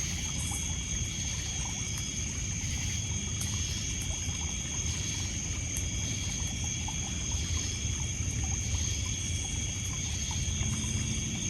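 Steady chorus of crickets and other night insects, several high pitches held without a break, over low water lapping on a pebble beach. Faint small crackles of a wood campfire come through now and then.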